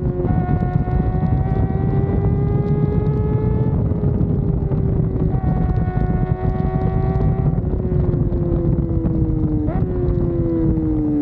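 Kawasaki ZX-4RR's inline-four engine pulling at high revs, its pitch holding and slowly rising, then falling off in the last few seconds with a short blip about two-thirds of the way through. Heavy wind rush on the microphone underneath.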